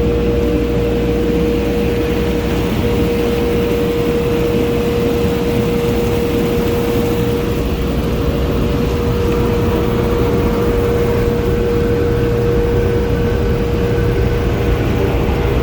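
Car wash dryer blowers running: a steady whining tone over a loud, even rush of blown air and low rumble, the blower having just wound up to full speed.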